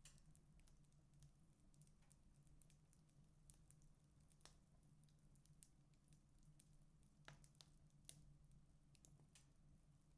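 Wood fire in a fireplace crackling faintly: irregular small pops and snaps, with a sharper snap about eight seconds in, over a low steady hum.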